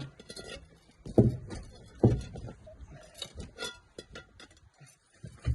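Knocks and clunks of a heavy truck wheel and pry bar being worked into place on the hub: two loud knocks about one and two seconds in, then lighter clicks and scrapes.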